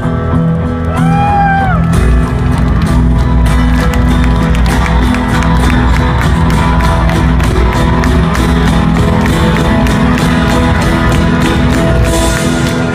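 Live rock band playing the instrumental ending of a song, with sustained guitars and keys over a steady drum beat.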